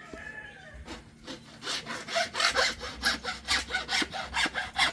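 A hand tool working wood with quick back-and-forth scraping strokes, about four a second, which start about two seconds in.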